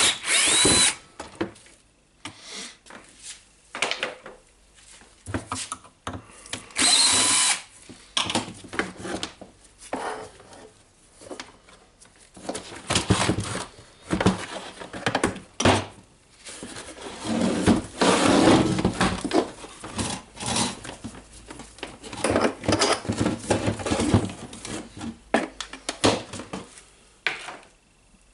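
Cordless drill-driver run in two short bursts, at the start and about seven seconds in, backing out screws from a plastic radio case. Between and after the bursts come irregular clicks, rattles and scrapes of the plastic housing and parts being handled.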